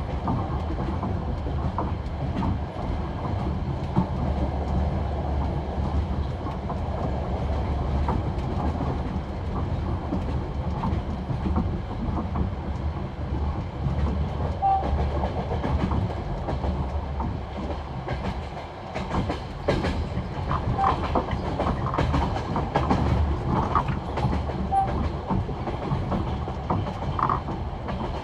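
Passenger train wheels knocking over the rail joints of old jointed (bolted) track at high speed, the classic clickety-clack heard from aboard the train over a steady rolling rumble.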